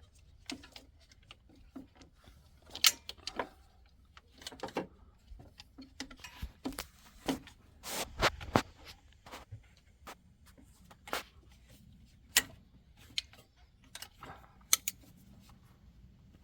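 Irregular sharp clicks, taps and short rubbing scrapes of hand work on a car's wiring: a rubber terminal boot and plastic parts being handled and pressed into place.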